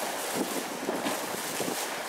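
JR East E351 series electric train running along the rails as it moves away, its rolling noise mixed with wind buffeting the microphone.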